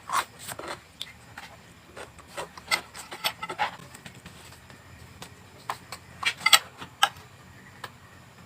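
Crunchy chewing of raw vegetables close to the microphone: irregular crisp crackles in clusters, with pauses between bites.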